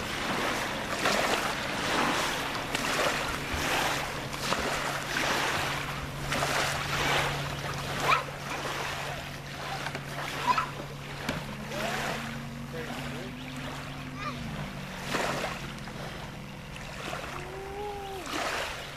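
Lake water lapping and splashing with wind on the microphone, over the steady hum of a distant boat motor that rises in pitch and drops back about two-thirds of the way through.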